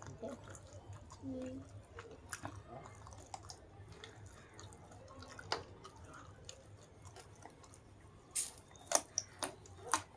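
A person chewing food close to the microphone, with soft wet mouth sounds and small clicks, and a few sharper, louder clicks near the end.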